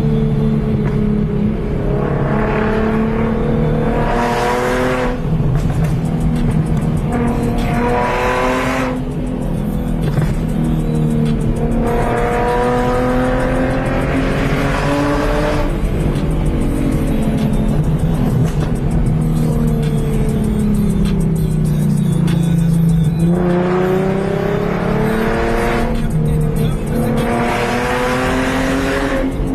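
2015 Mustang's 3.7-litre V6 running through a straight exhaust with no mufflers, its resonator replaced by an X-pipe. The exhaust note climbs in pitch through several hard pulls, dropping back at each shift. Midway the pitch falls slowly for several seconds as the car slows, then it pulls hard twice more.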